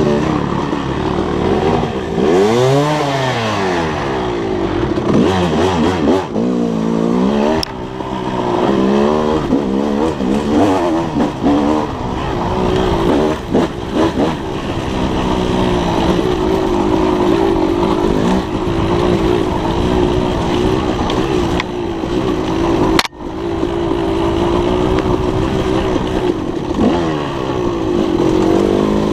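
Dirt bike engine being ridden hard, its pitch rising and falling again and again as it revs up and shifts. A sharp click with a brief drop in sound comes about three-quarters of the way through.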